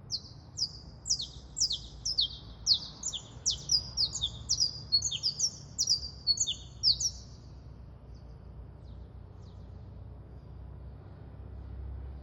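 A songbird singing a fast run of high, downward-sliding whistled notes for about seven seconds, then only a few faint notes.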